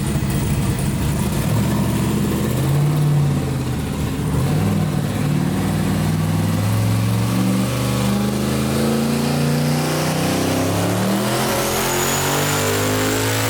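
Twin-turbo Chevy S10's engine running on a chassis dyno at 7 psi of boost, first wavering and then revving up steadily under load through the second half of a pull, with a high whistle rising alongside it near the end.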